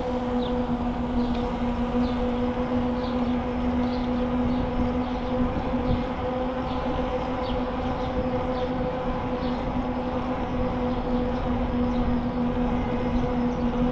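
Steady hum of a bicycle in motion, its tyres and drivetrain running at an even speed, with a faint high squeak repeating about every half second.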